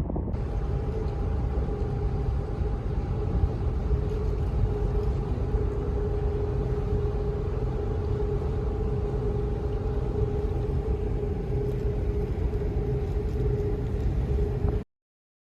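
Steady low mechanical rumble with a constant two-tone hum, cutting off abruptly near the end.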